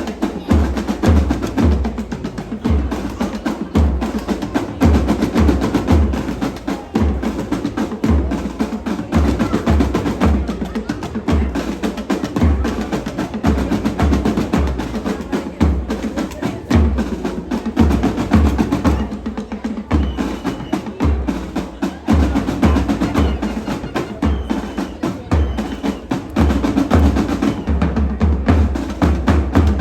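Drum corps playing a percussion cadence: low bass-drum beats in quick repeated groups under busy snare-drum strokes.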